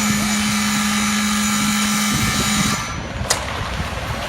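Truck-mounted concrete mixer pump running with a steady machine hum. About two and a half seconds in, it gives way abruptly to a rougher, clattering machine noise with a sharp knock.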